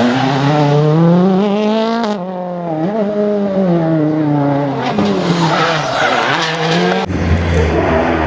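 A World Rally Car's 1.6-litre turbocharged four-cylinder engine at full racing effort, the pitch rising and falling several times as it accelerates and shifts gear or brakes for corners. About seven seconds in the sound changes abruptly to a duller engine note with a low hum.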